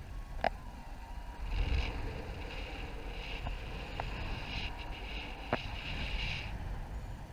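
Wind rushing over the microphone in flight: a steady low rumble with a hissing band that rises about a second and a half in and drops away near the end, with a few sharp ticks.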